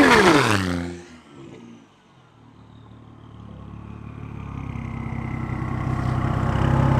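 A car at full throttle passing close by, its engine pitch dropping as it goes past and fading away within about two seconds. Then another engine slowly grows louder.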